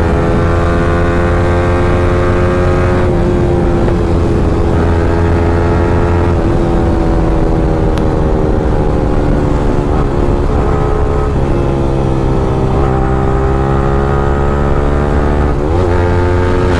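A Yamaha R15M's 155 cc single-cylinder engine running loud at high revs through an Akrapovic free-flow exhaust while riding. Its pitch sags slowly over several seconds with a few brief dips, then rises quickly again near the end.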